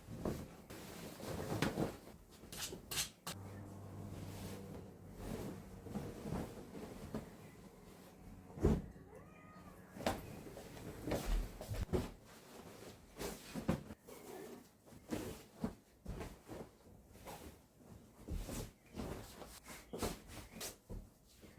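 A domestic cat meowing faintly, among scattered light knocks and rustles.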